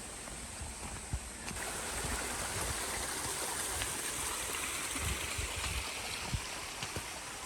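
A mountain stream running over rocks, a steady rushing that swells a little louder about a second and a half in, with the walker's footsteps thudding underneath.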